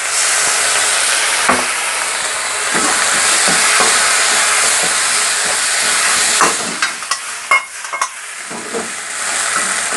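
Kimchi fried rice sizzling loudly in a hot iron wok as soy sauce poured down its side hits the metal, with the ladle stirring and scraping. From about six and a half seconds in come a series of sharp clacks and knocks as the wok is tossed and the ladle strikes it, then the sizzle picks up again.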